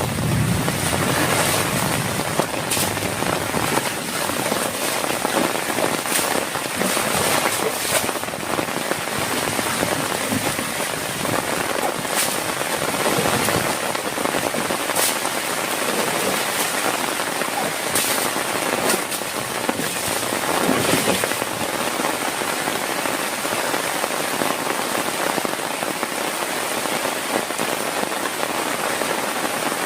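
Heavy rain falling steadily, with scattered sharp pops of large drops striking a surface close by.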